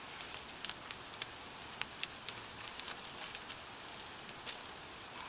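Wood fire crackling, with irregular sharp pops over a steady high hiss, as a ribeye steak sears on a fire-heated flat rock.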